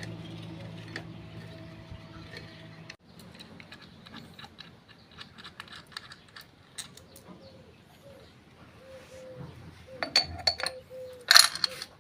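Light metallic clicks and clinks of hand tools against the motorcycle's clutch parts, scattered at first, with a cluster of louder clinks near the end. A faint steady hum in the first few seconds cuts off suddenly.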